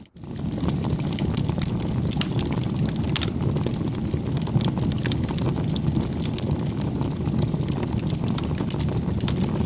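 Bonfire crackling: a steady low rumble of burning with frequent irregular snaps and pops of burning wood. The sound cuts out for a split second right at the start.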